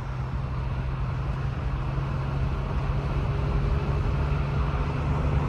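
1989 Porsche 911 Carrera 3.2's air-cooled flat-six running steadily at highway cruising speed, heard from inside the cabin together with tyre and wind noise.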